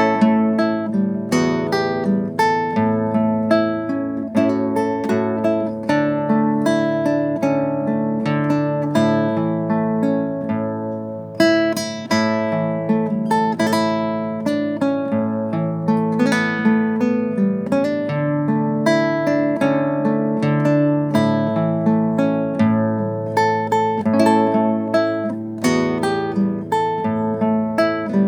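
Acoustic guitar played steadily, with plucked melody notes over a bass line and no singing.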